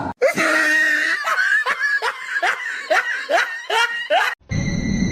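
A person laughing in a run of about ten short bursts, a bit over two a second, stopping about four seconds in.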